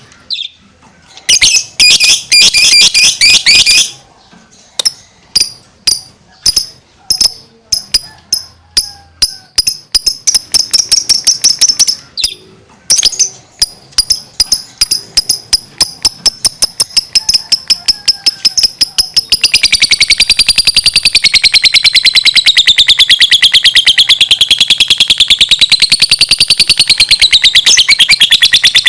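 Lovebird singing: sharp, high chirps repeated faster and faster, running together about two-thirds of the way in into one long, rapid trill that wavers up and down in pitch.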